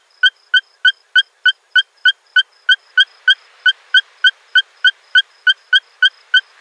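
Natal sand frog calling: a long, even series of sharp, high-pitched notes, about three a second.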